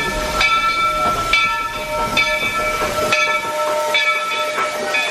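Steam locomotive standing with steam hissing, a steady ringing tone, and a rhythmic pulse a little more than once a second.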